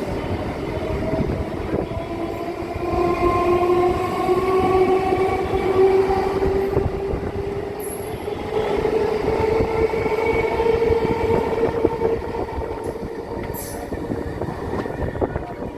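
A train running past with a continuous rumble and clatter of wheels on rail. Several held tones rise slowly in pitch through the middle of the passage.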